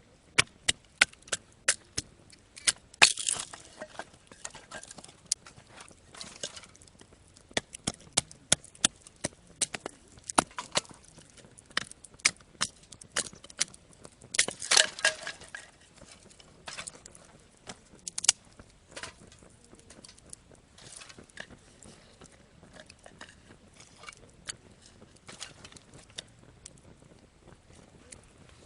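Small wood campfire crackling, with irregular sharp pops and snaps and denser clusters of pops about three and fifteen seconds in.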